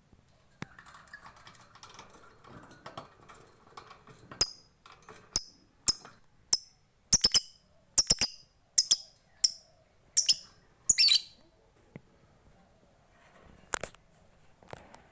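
Lovebird calling: a run of sharp, very high chirps, each dropping in pitch, some in quick pairs and triples, ending in a longer chattering burst about eleven seconds in. Softer low chatter comes before the chirps begin.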